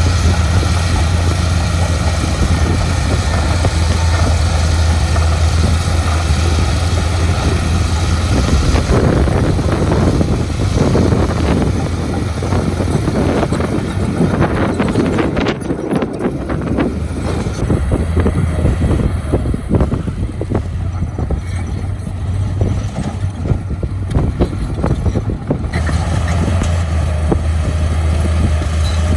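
Heavy diesel engine of earthmoving machinery running with a steady low drone. From about 9 s to 26 s a rougher, crackling noise with irregular rattles rises over it, then the steady drone alone returns near the end.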